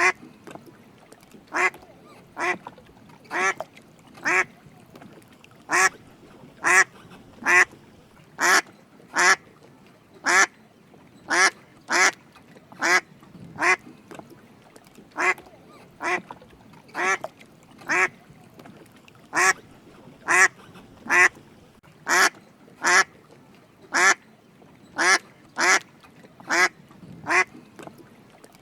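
Drake mallard quacking: short calls repeated about once a second, often in twos and threes, through the whole stretch.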